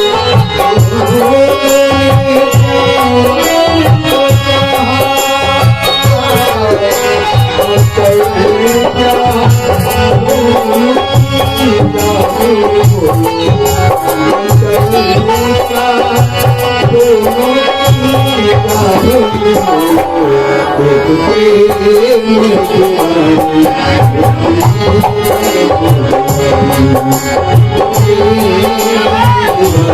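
Instrumental Indian music: tabla keeps a steady rhythm under a sustained, winding melody line, with no singing.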